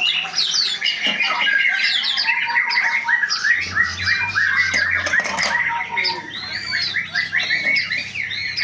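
A flock of birds calling all at once: many short, overlapping chirps and squawks in a dense, continuous chatter.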